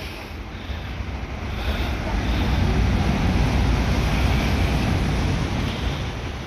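JR East 205-series electric commuter train coming in along the station track: a low rumble of wheels and motors that swells to its loudest about three to five seconds in, then eases.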